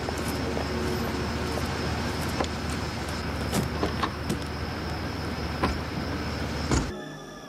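Soft-top Jeep's engine idling with a steady low hum, with a few light clicks and knocks over it. A sharp knock of the car door shutting comes near the end, then the sound cuts off abruptly.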